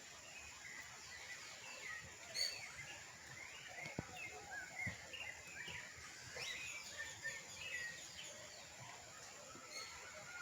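Birds chirping and calling, faint: many short notes gliding up and down. Two soft knocks about four and five seconds in.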